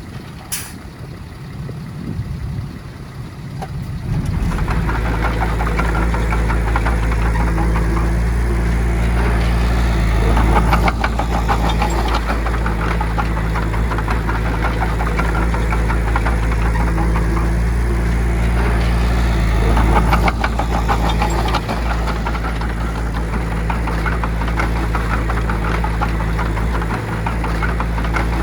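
Diesel engine of a heavy earthmoving machine comes in about four seconds in and runs steadily with a knocking clatter, growing louder twice. Before it there is only a quieter, even noise.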